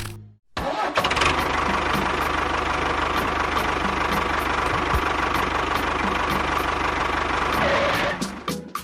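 A small engine running steadily, starting abruptly about half a second in and dying away near the end.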